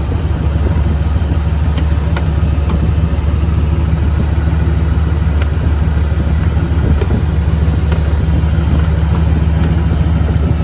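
1997 Ford F-350 dump truck's 460 big-block V8 idling steadily.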